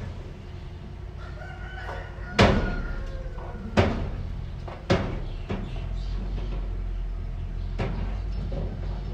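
A steady low engine drone from working machinery, with three sharp, loud knocks about a second apart in the middle and a weaker one near the end. A rooster crows in the background.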